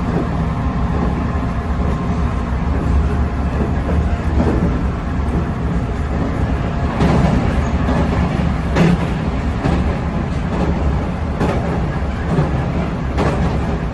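JR Central 311 series electric multiple unit running along the line, heard inside the car: a steady low rumble of the wheels and running gear, with a few sharp clacks of wheels crossing rail joints or points.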